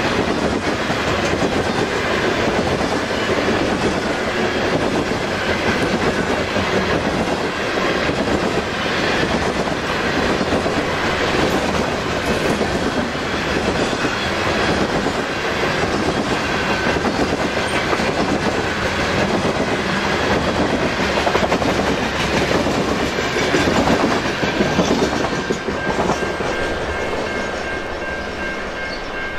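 Loaded grain hopper cars of a long freight train rolling past at speed: a steady rumble with the wheels clicking over the rail joints. It eases off slightly near the end.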